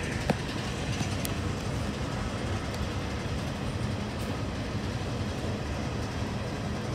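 Freight cars of a passing CSX freight train rolling by: a steady rumble of steel wheels on the rails.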